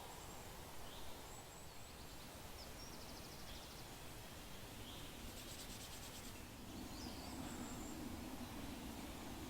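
Forest ambience: small birds giving short high chirps, with a couple of quick trills, over a steady low hiss.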